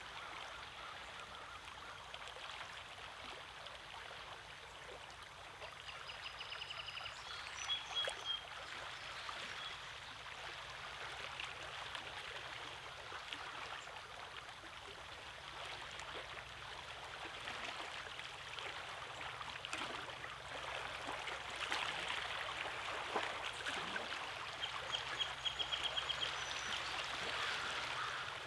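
Small waves lapping and trickling among the rocks of a lake shore, a steady wash of water. A few short, high bird calls come through over it, a quick run of repeated notes about six seconds in and again near the end.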